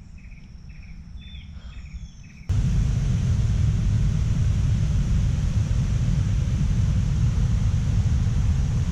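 Insects chirping in a steady repeating pattern. About two and a half seconds in, a loud, steady rushing noise with a deep rumble starts abruptly and covers them.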